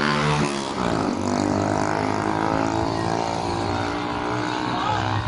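A motor vehicle's engine passing close by. Its pitch falls as it goes past about a second in, then it settles into a steadier, lower drone.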